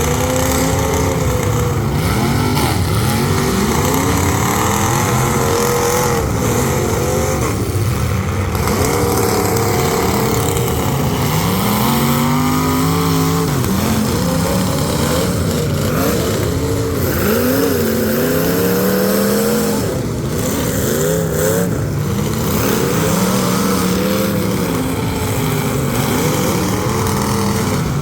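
Several full-size demolition derby cars' engines revving hard at once, their pitches rising and falling and overlapping as the cars accelerate and back off in the arena.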